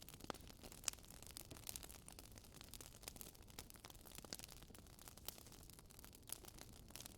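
Wood fire crackling softly: a faint hiss with sharp pops and snaps at irregular intervals, a few of them louder.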